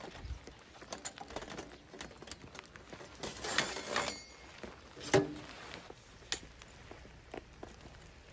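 Rain pattering, with scattered small clicks, a louder rustling stretch about three seconds in and a sharp knock about five seconds in.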